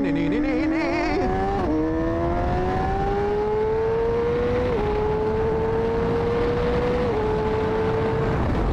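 Honda CBR600RR inline-four on a loud aftermarket full exhaust, accelerating hard: the revs climb, then step down with three quick upshifts. Wind rushes over the onboard microphone.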